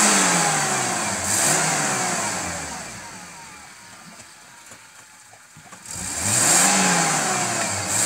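Small 4x4 off-roader's engine revving in repeated surges, pitch swinging up and down, with a hiss of spinning wheels churning mud and water. It dies down for a couple of seconds midway, then revs hard again near the end.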